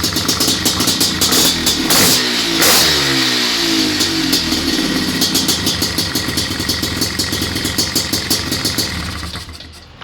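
Honda CR500 two-stroke single-cylinder engine in a 1989 Honda Pilot, running with a rapid firing rhythm. It is blipped twice in quick succession about two seconds in, and the revs fall back to idle after each. It then runs steadily and dies away near the end.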